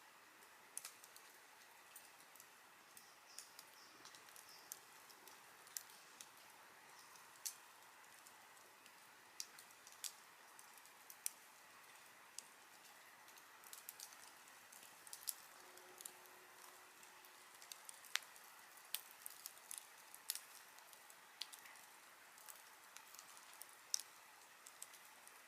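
Wood campfire crackling: sparse, irregular sharp pops and snaps over a faint steady hiss.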